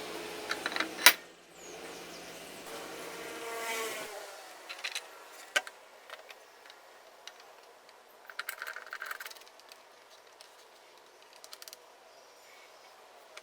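Electric drill motor running and then stopping about four seconds in, with a sharp click about a second in. After it come scattered clicks and a brief rattle of tools and parts being handled.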